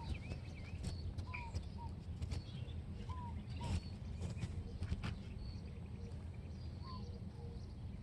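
Birds chirping: short, scattered calls, several dropping slightly in pitch, over a steady low rumble, with a few sharp clicks.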